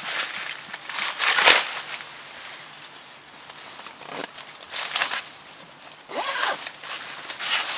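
Irregular rustling and rasping handling noises, with a sharp click about a second and a half in.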